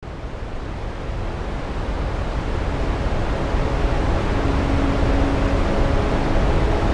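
Steady roar of a large waterfall's rushing water, fading in and growing louder. Held low musical tones begin to come in past the middle.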